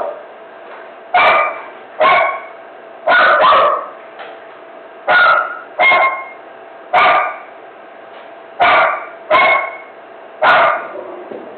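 A dog barking over and over, about ten barks spaced roughly a second apart, some coming in quick pairs.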